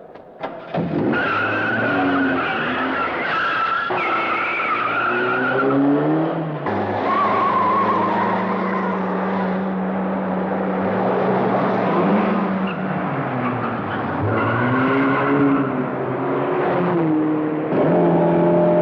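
Car engines revving hard, rising and falling through gear changes, with repeated tyre squeals as the cars skid through corners. It starts abruptly about a second in.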